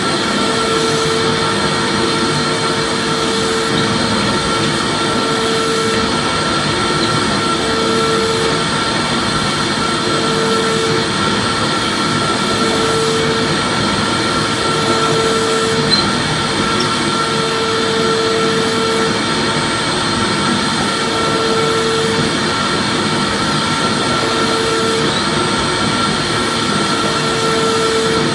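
Vacuum cleaner running continuously: a steady motor rush with a constant whine, and a lower hum that swells in and out every couple of seconds.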